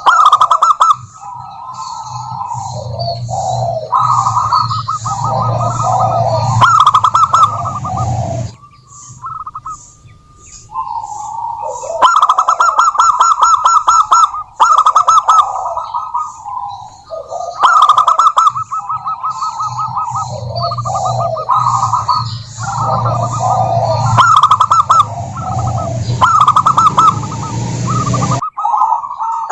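Zebra doves cooing: rapid, rattling coo phrases near one pitch, following one another almost without pause, with a quieter lull about nine to twelve seconds in.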